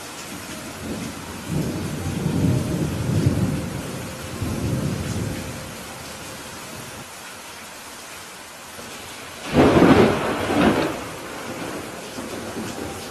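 Steady rain falling, with two thunder peals: a low rumble rolling for a few seconds early on, then a sharper, louder clap about ten seconds in that rumbles off.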